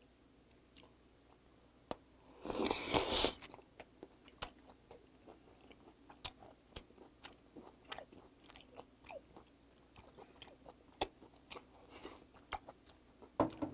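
A person chewing a mouthful of raw olive flounder sashimi dipped in sea cucumber intestine sauce, heard close up: a short loud burst of noise about two and a half seconds in, then a long run of wet mouth clicks and smacks.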